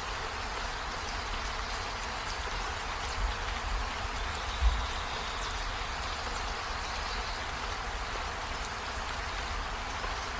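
Steady rushing of water falling at a waterfall, with low wind buffeting on the microphone and a couple of brief thumps about three and four and a half seconds in.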